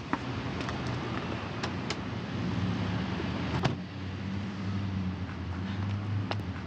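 A car's engine running, a low steady hum, with a few sharp clicks scattered through it.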